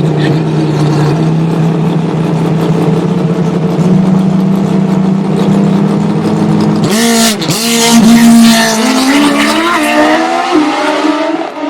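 Drag racing motorcycle engines held at steady high revs, then a loud launch about seven seconds in, the engine pitch climbing as the bike accelerates away down the strip.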